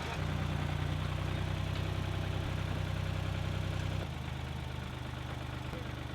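Wood-Mizer LT28 portable sawmill's engine running steadily; its sound is fuller for the first four seconds, then drops to a lower level.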